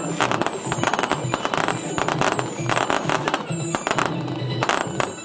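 Fireworks going off in quick succession: dense crackling and sharp pops, over music with a steady beat.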